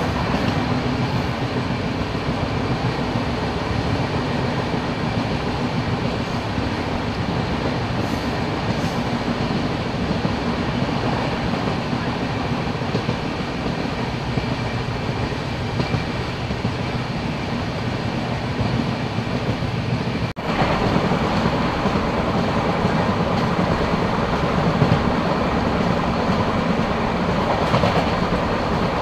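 Passenger express train coach running at speed, heard from the open coach door: a steady rumble and rush of wheels on the rails. About two-thirds of the way through it breaks off for an instant and comes back a little louder.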